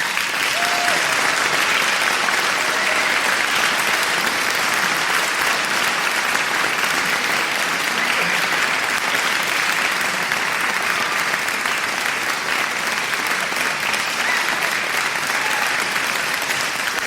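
Crowd applauding: dense, steady clapping that holds at an even level throughout.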